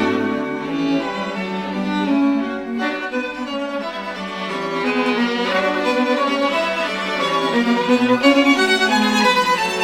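Background music: a string quartet, violin over cello, playing a quick-moving classical piece with notes changing several times a second.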